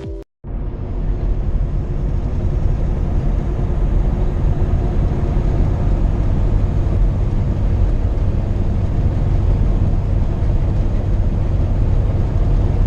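Semi truck driving at highway speed: a steady low engine drone mixed with road and wind noise. It comes in after a short silence about half a second in and builds over the first second.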